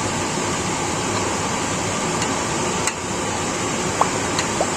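Pan of chicken legs in tomato-curry sauce boiling on the stove, a steady bubbling hiss, with a few faint clinks.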